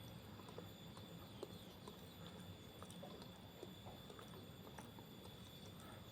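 Near silence: faint room tone with a low hum and scattered light ticks.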